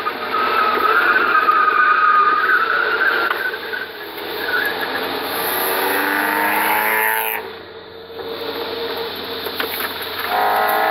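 In-cabin sound of a Hyundai Sonata V6 engine on track, with the tyres squealing through a corner for the first few seconds. The revs then fall as the car slows, the sound dips briefly about seven seconds in, and the engine pulls up in revs again near the end.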